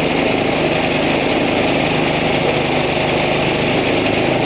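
Engine-driven rice thresher running steadily while threshing rice, a constant mechanical drone.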